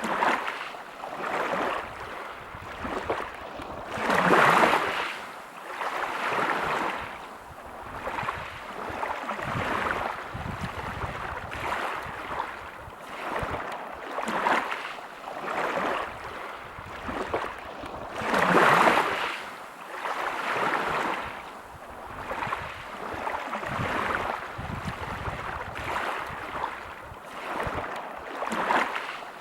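Sea waves breaking on a pebble beach, washing in and out in swells every couple of seconds, with two larger waves breaking about four seconds in and again around two-thirds of the way through.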